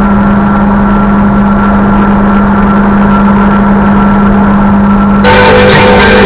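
Steady drone of a car's engine and road noise heard inside the cabin, with a constant low hum. About five seconds in, music from the car radio starts up.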